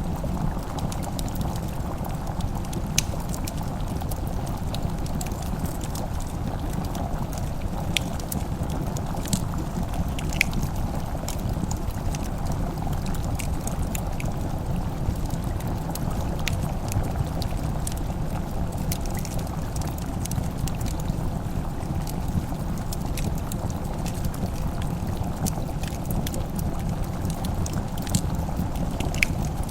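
Fire crackling in a fireplace: a steady low rumble with scattered, irregular sharp pops.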